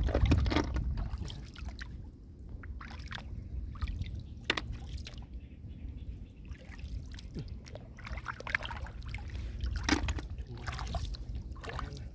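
Shallow water sloshing, trickling and dripping in irregular small splashes, as when hands work through floodwater, over a low steady rumble.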